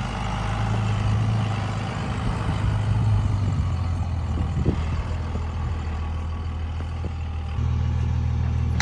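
Truck engine running steadily, with a step up in level about seven and a half seconds in.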